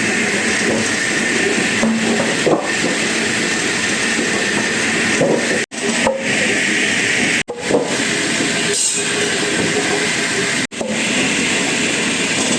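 Wood-processing machinery running with a steady, loud hissing noise. It is interrupted three times by abrupt drop-outs to silence, where the clip is cut.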